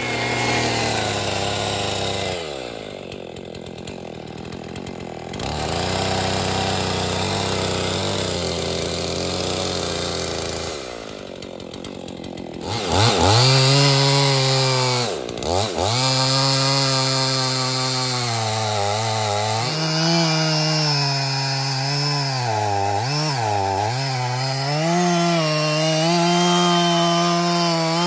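Gas chainsaw cutting into a large pine trunk during a felling cut. The engine drops to a lower note twice, surges loud about halfway through, and its pitch wavers and dips as the chain bogs under load in the wood.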